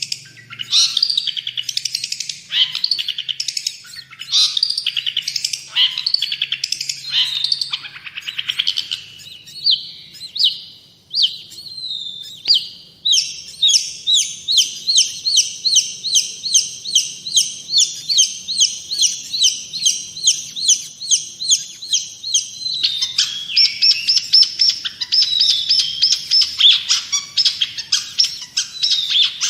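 Long-tailed shrike (cendet) singing. It gives varied, scratchy chattering phrases at first, then from about halfway through a long run of fast repeated notes, several a second, which changes to a new repeated phrase near the end.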